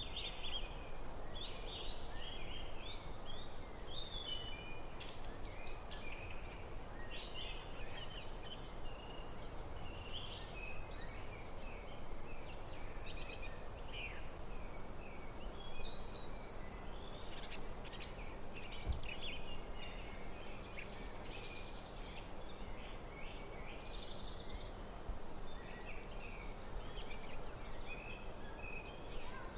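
Birdsong in a forest: several birds chirping and trilling, many short high calls overlapping throughout, over a steady background hiss.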